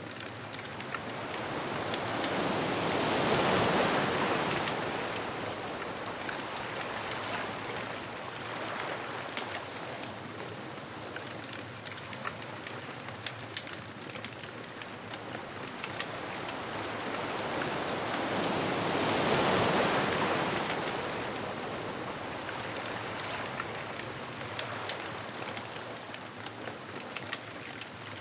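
Ocean waves breaking and washing up the shore, two swells about sixteen seconds apart, over the steady crackle of a beach bonfire.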